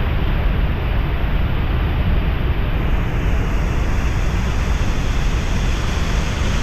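Steady, loud roar of the Horseshoe Falls at Niagara: a constant rushing noise of falling water, heaviest in the low end, with no letup.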